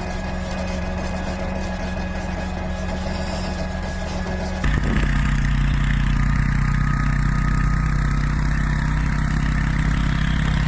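Vehicle engines running steadily, with a sudden change about four and a half seconds in to a louder, deeper engine sound.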